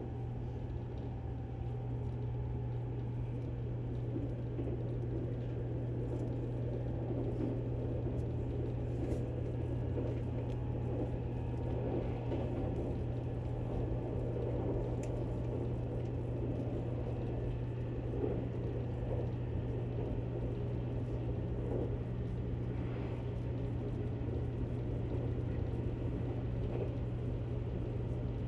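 Steady running noise inside a JR Kyushu 783 series electric train at speed: a low rumble with a constant deep hum underneath.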